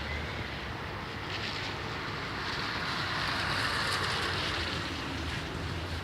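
Steady hiss of rain in a thunderstorm, swelling a little in the middle and easing off again; no thunder.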